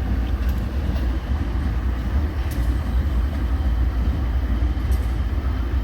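Freight train hauled by GE B39-8E diesel locomotives, a steady low rumble.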